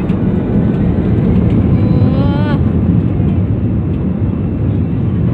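Airliner cabin noise just after takeoff: a steady, loud rumble of engines and airflow heard from inside the cabin.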